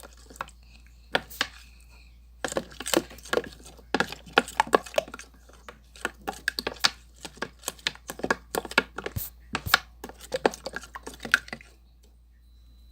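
Clear slime being mixed and worked, giving quick, irregular sticky clicks and snaps, several a second, that stop about a second before the end.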